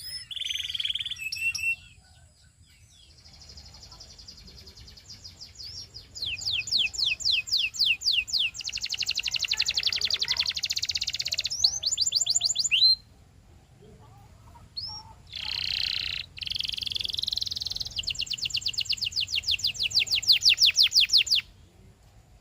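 Canary singing: fast trills and rolls of rapidly repeated high sweeping notes, broken by short pauses about two seconds in and again around thirteen seconds in. The song stops about a second before the end.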